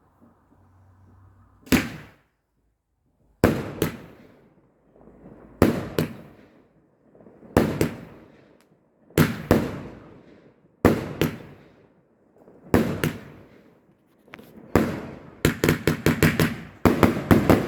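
Garden fireworks going off: sharp bangs about every two seconds, often in quick pairs, running into a rapid volley of bangs near the end.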